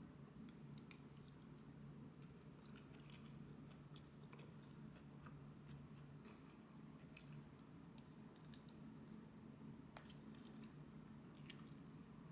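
Faint eating sounds: quiet chewing with small scattered clicks, over a low steady hum.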